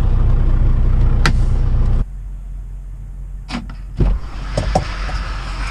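Semi truck's diesel engine idling steadily, heard from inside the cab, with a single click; about two seconds in the hum stops abruptly, leaving a quieter background with a few short clunks and knocks.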